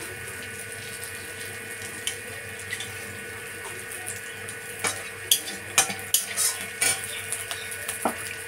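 Onion, garlic and green chillies sizzling steadily in oil in a wok, with sharp clinks and scrapes of a metal spatula against the wok and a metal plate as some of the fried mix is lifted out; the clinks come mostly in the second half.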